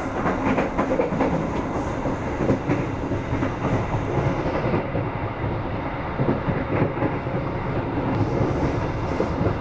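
Passenger train running at speed, heard from inside the carriage: a steady rumble of wheels on the rails with occasional clacks over the track.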